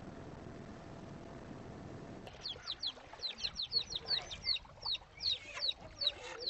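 A low steady rush of noise, then, from about two seconds in, birds calling: a quick run of short, high chirps, each falling in pitch, several a second.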